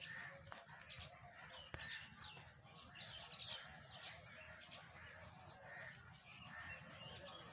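Faint bird chirps, many short calls scattered throughout, over a quiet background hum.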